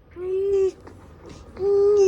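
A child's voice holding a sung note twice: a short note near the start, then a longer one at the same pitch starting near the end.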